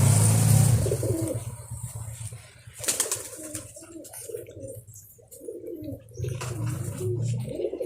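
Pigeons cooing in repeated low, wavering phrases, with a brief clatter about three seconds in. A low hum at the start fades out after about a second.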